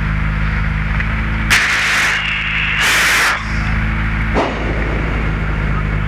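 Rally-prepared Citroën Saxo's four-cylinder engine idling steadily, heard from inside the cabin. Two loud bursts of hiss come about a second and a half and three seconds in, and a short knock follows a little after four seconds.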